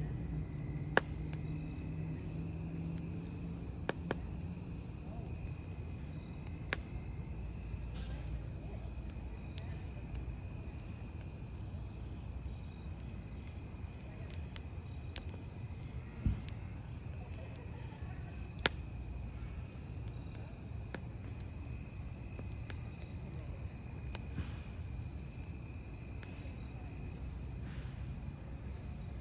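Crickets chirping steadily over a crackling wood campfire, with a few sharp pops from the burning logs, the loudest about a second in and twice more past the middle.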